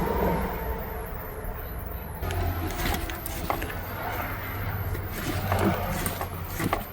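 A wire fish tape drawing a speaker wire through the car body: scattered light scrapes and clicks over a steady low hum.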